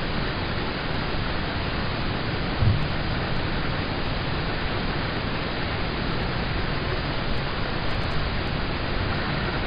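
Steady rain drumming on a car's roof and windows, heard from inside the car as an even hiss. About two and a half seconds in there is a single dull, low thump.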